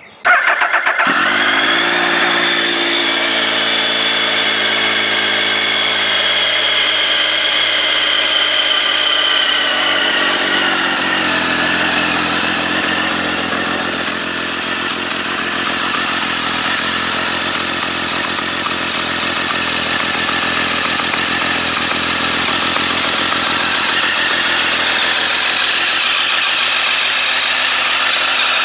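Triumph Daytona 955i's inline three-cylinder engine cranked on the starter and catching within about a second, then idling. The idle eases down to a lower, steady speed about ten seconds in.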